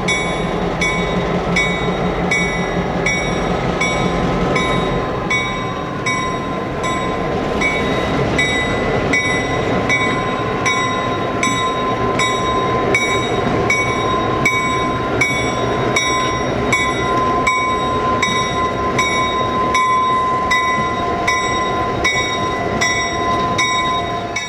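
Locomotive moving light through a rail yard, its engine running under the steady ringing of its bell, about three strokes every two seconds.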